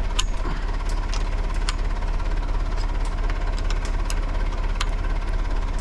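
Engine idling steadily with a low, even hum, with scattered light clicks and taps over it.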